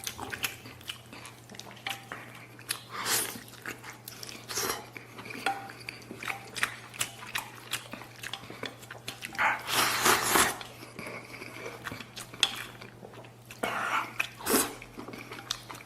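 A person eating stewed pork spare ribs and fatty pork close to the microphone: chewing and biting, with small clicks of chopsticks or utensils against a bowl. The loudest noisy burst comes about ten seconds in, and a steady low hum runs underneath.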